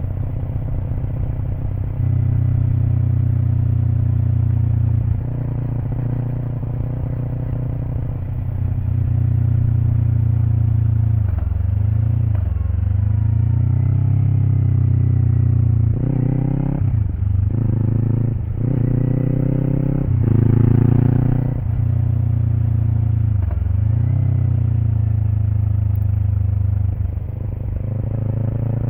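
Kawasaki Eliminator SE's parallel-twin engine running through a BEAMS Power Header W exhaust while riding. The exhaust note rises with the throttle and drops back several times in the middle, as at gear changes and roll-offs.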